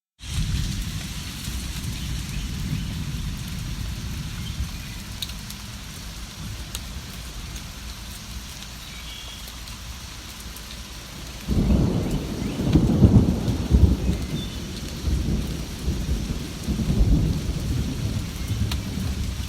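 Steady rain with rolling thunder. Low rumbling starts suddenly at the very beginning. A louder roll of thunder builds a little past halfway, surges over a few seconds, then swells again near the end.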